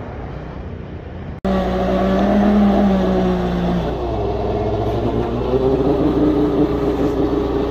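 A motor vehicle's engine running with a steady low rumble, its pitch shifting slowly. The sound begins abruptly about a second and a half in, after quieter background noise.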